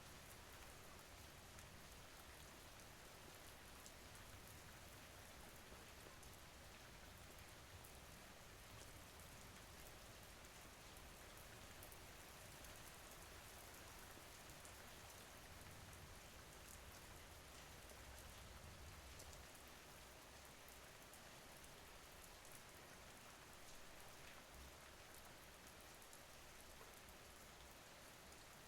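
Faint, steady rain: an even hiss of rainfall dotted with fine ticks of individual drops.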